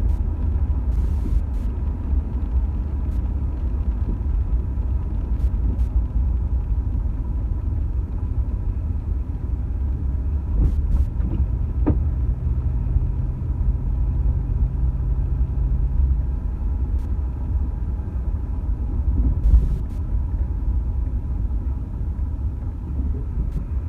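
A car driving, its steady low road and engine rumble running throughout, with a few faint clicks and a faint low hum in the middle.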